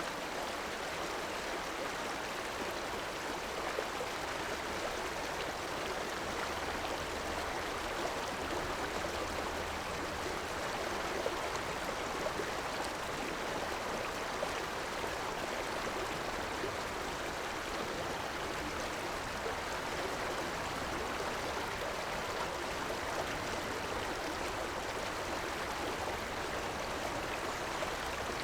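River water running steadily over rocks, a continuous rushing with fine splashing and gurgling.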